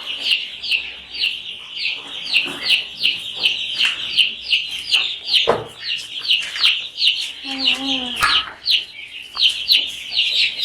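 A flock of young chicks peeping without a break: short, high-pitched peeps that slide down in pitch, several a second and overlapping. A single knock comes about halfway through, and a brief low, voice-like sound comes near 8 seconds in.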